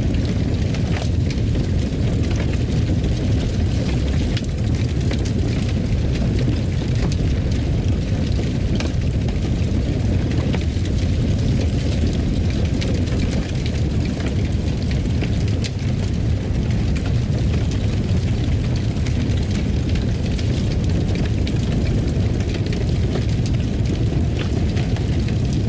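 Fire burning in a fireplace: a steady low rumble with scattered faint crackles.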